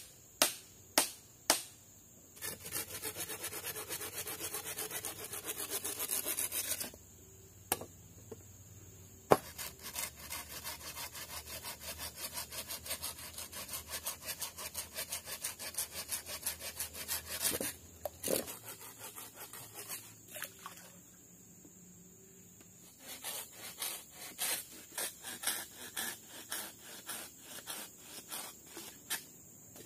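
Hand tool working wood: a few sharp, evenly spaced chops, then runs of quick rhythmic rasping strokes like hand sawing, broken by short pauses.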